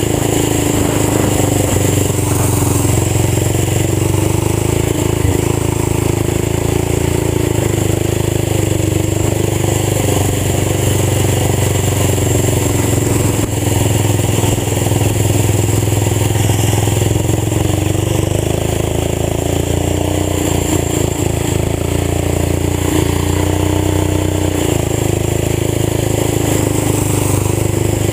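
Old tractor's engine running through a fully open exhaust, loud and steady, its pitch wavering a little as the engine speed shifts.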